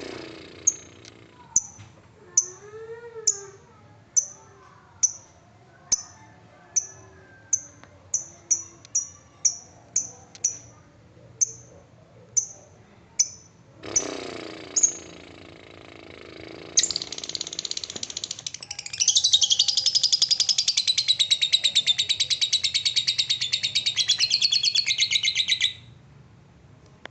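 Lovebird giving short sharp high chirps one by one, roughly one a second and quickening for a while, then breaking into a long, loud, rapid chattering trill (ngekek) that lasts about nine seconds and cuts off suddenly.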